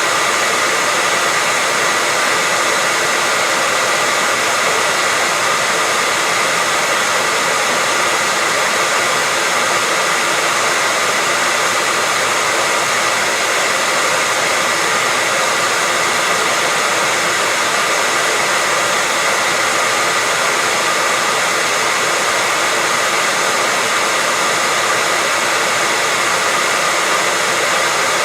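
Electric hair dryer running continuously: a steady, even rushing of air with a faint constant whine, unchanging throughout.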